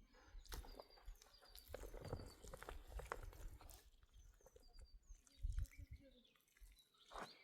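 Quiet outdoor ambience: faint scattered clicks and rustles, with a few small, high bird chirps repeating now and then and some low thumps about five and a half seconds in.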